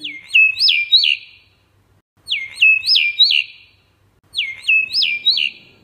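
A recorded bird call played three times, about two seconds apart. Each phrase is a quick run of high whistled notes that sweep down and then up.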